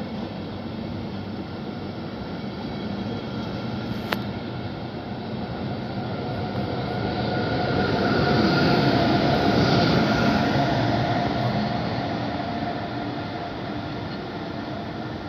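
A train moving along the station tracks, its running noise swelling to a peak about eight to ten seconds in and then fading, with a steady whine above it. A single sharp click about four seconds in.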